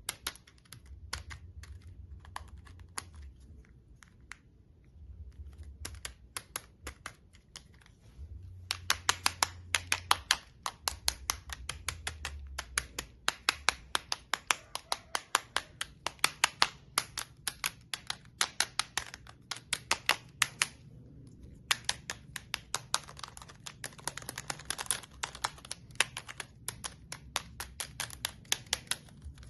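A toy being clicked over and over: scattered sharp clicks at first, then from about eight seconds in quick runs of several clicks a second, with short pauses between runs.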